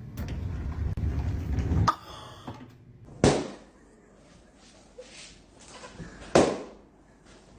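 Low rumbling noise for about two seconds, then two sharp bangs about three seconds apart, each fading out over about half a second.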